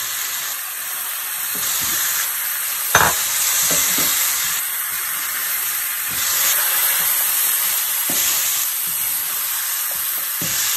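Tomato wedges and onion-spice paste frying with a steady sizzle in a hot oiled pan. A wooden spatula stirring them knocks against the pan now and then, loudest about three seconds in.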